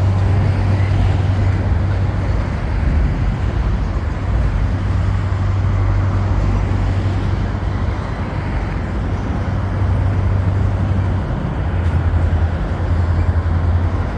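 BNSF refrigerated boxcars rolling over a timber railroad trestle just overhead: a steady, loud rumble with a strong low hum underneath.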